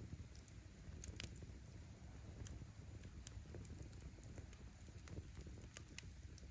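Firewood burning in an open bonfire: a low, steady rumble of flames with scattered, irregular sharp crackles and pops as the wood bursts.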